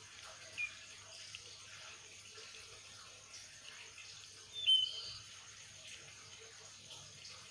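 Faint steady background hiss with a low hum. A few short high chirps, like a small bird's calls, come through it: one about half a second in and a louder double chirp a little after halfway.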